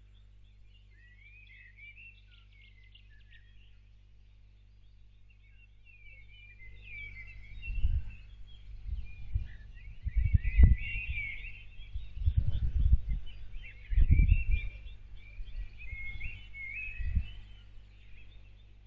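Birds chirping and singing over a steady low hum. From about seven seconds in, irregular deep rumbling thumps come and go; the strongest fall about ten and a half and fourteen seconds in.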